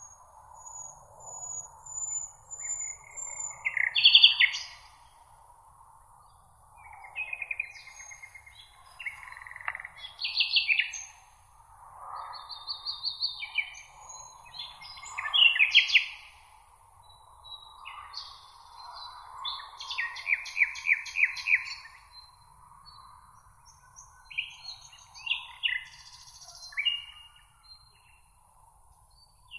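Several songbirds singing at once, a busy mix of short chirps, rapid trills and repeated notes that come in bursts every few seconds, over a steady high hiss.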